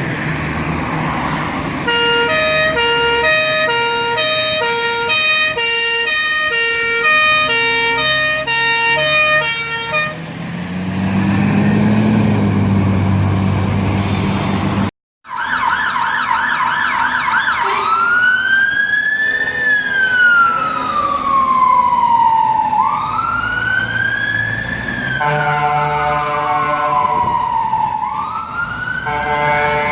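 Fire engine sirens on an emergency turnout: a two-tone siren alternates steadily for several seconds, then an engine runs up as the appliance pulls away. After a break, a fast yelp changes to a slow rising-and-falling wail, and a second two-tone sounds over it near the end.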